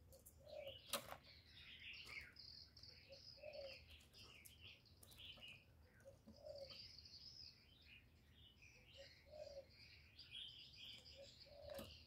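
Faint chirping of small birds, with a soft low note about every three seconds and one sharp click about a second in.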